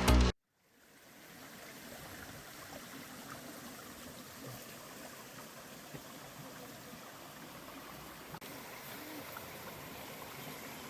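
Music cuts off right at the start, then a steady rush of running water, like a small stream, fades in and carries on evenly.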